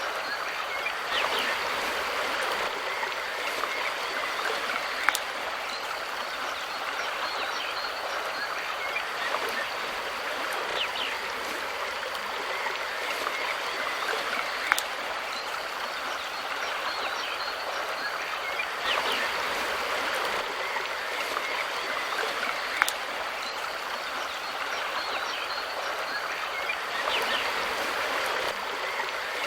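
Mountain river rushing steadily over stones, its flow swelling and easing every several seconds, with a few sharp single clicks.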